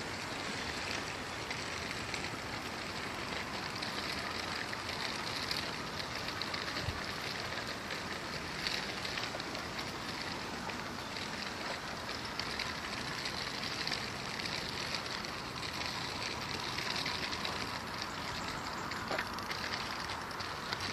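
Steady rolling, rustling noise of walking along a trail.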